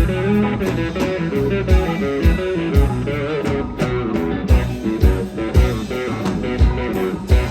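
Live band playing an instrumental passage of a blues-rock song: guitar lines over bass and a steady drum beat.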